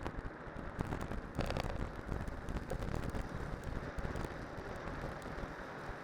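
Studded cyclocross tyres rolling downhill, a steady rumbling road noise with the bike's frequent rattling clicks and wind rumble on the microphone.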